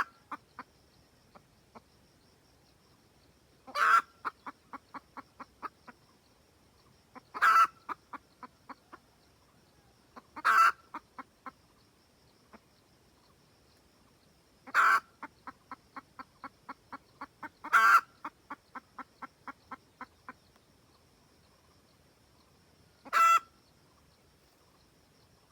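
A red junglefowl hen cackling to call a rooster. Loud calls about six times, each with a run of short, quick clucks at about four a second.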